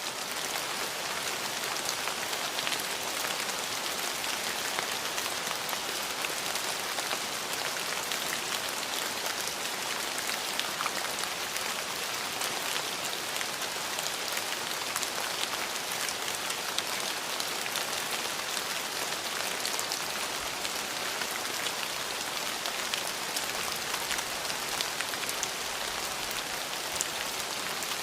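Steady rainfall, with a constant wash and many small individual drop hits ticking through it.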